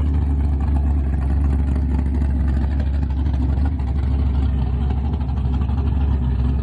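Car engine running steadily at low revs, a deep even sound with no revving.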